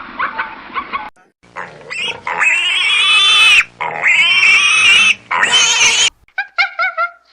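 An animal's loud, high-pitched squealing calls: three long squeals, each about a second, followed by a quick series of short yelping calls near the end.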